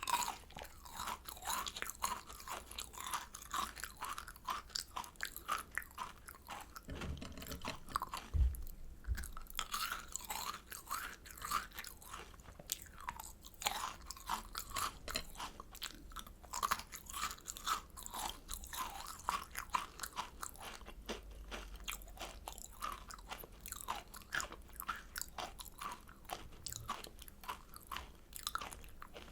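Close-miked crunching and chewing of kohakutou, Japanese crystal candy with a crisp sugar crust over a soft agar jelly inside: a dense stream of small crackles and chews, with a few dull low knocks about eight seconds in.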